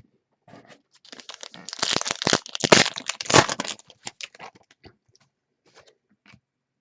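A trading card pack's wrapper being torn open and crinkled, starting about a second and a half in and lasting about two seconds, with light clicks and rustles of handling on either side.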